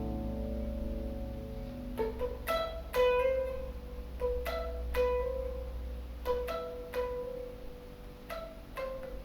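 Acoustic guitar: a strummed chord rings out and fades, then from about two seconds in single notes are picked one at a time, about a dozen of them, mostly on the same pitch.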